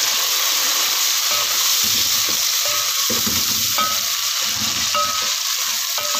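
Onions, garlic, ginger and chopped tomatoes sizzling in hot cooking oil in a metal pot, stirred with a wooden spoon that scrapes through the food in irregular strokes, mostly in the middle stretch.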